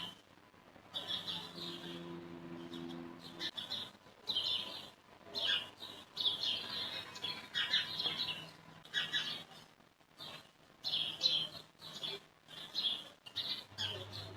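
Small birds chirping repeatedly in the background, in short high bursts throughout.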